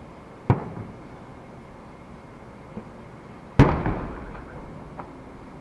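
Aerial firework shells bursting. There is a boom about half a second in and a louder one about three and a half seconds in, each trailing off in a rolling rumble, with a couple of fainter pops between.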